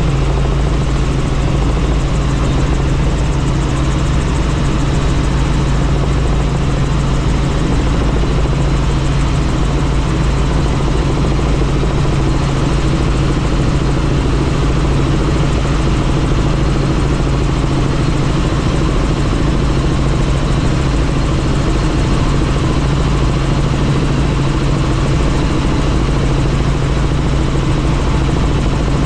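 Helicopter engine and rotor noise in steady flight, heard from on board: a constant, loud drone with a low hum and rushing noise that does not change.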